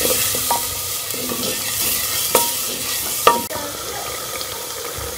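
Onion, tomato and chilli masala sizzling in ghee in a clay pot as a spatula stirs it, with three sharp knocks of the spatula against the pot.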